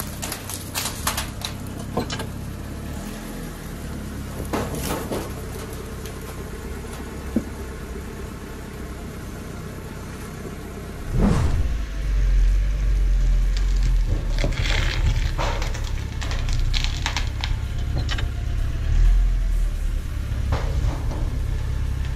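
Molten lava crackling and popping in short bursts beside a car tyre. About halfway through, a car engine starts and keeps running with a low rumble.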